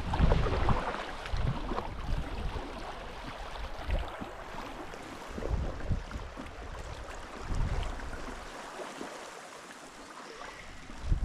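Water noise from a small rowing boat on a river, with wind gusting on the microphone in low rumbles that are strongest in the first second or two and ease off toward the end.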